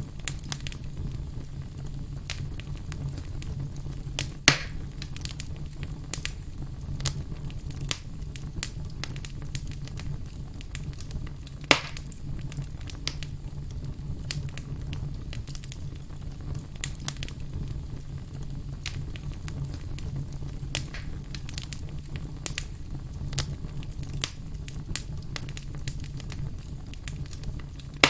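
Firewood burning: a steady low rumble of flames with frequent small crackles and sharp pops, two louder pops about four and twelve seconds in.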